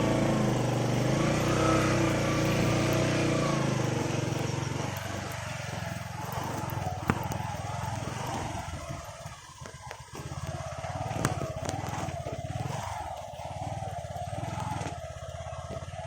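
A vehicle engine running as it travels slowly over a badly broken, flood-damaged road, louder for the first few seconds and then easing off, with a few sharp knocks along the way.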